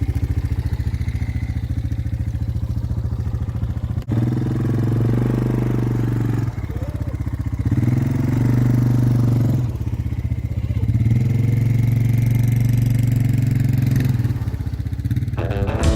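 Snowmobile engine running, its note growing louder and stronger in three stretches as it is given throttle.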